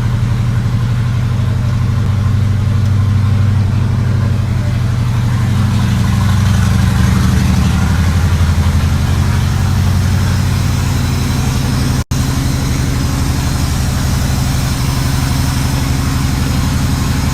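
A vehicle engine idling steadily, swelling a little in the middle, with a brief break about two-thirds of the way through.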